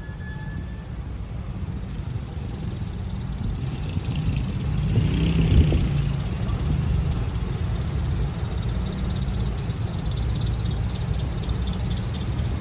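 City street traffic: a steady rumble of vehicle engines, with one vehicle passing close about five to six seconds in.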